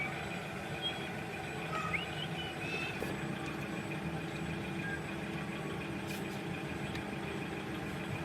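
Restored Shimizu electric water pump running with a steady motor hum.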